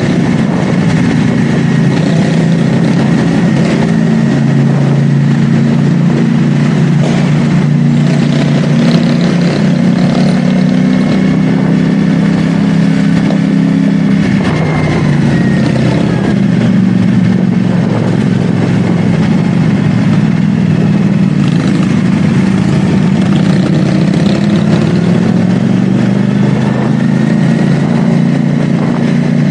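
CFMoto 450SR S parallel-twin engine running under way at fairly steady revs, with wind noise over it. The engine note drops about halfway through and climbs again near the end.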